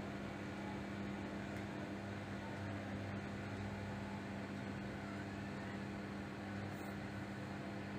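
A 1200-watt microwave oven running with a steady hum. There is no crackle of sparking from the copper wires inside.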